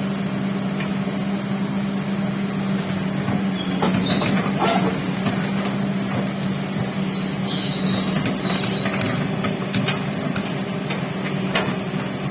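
Heavy construction machine's engine running with a steady hum, with a cluster of knocks and clanks about four seconds in.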